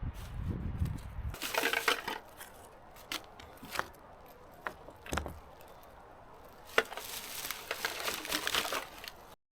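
Crinkling and rustling of something being handled, in two stretches, with a few separate sharp clicks and knocks between them; a low rumble at the start, and the sound cuts off abruptly near the end.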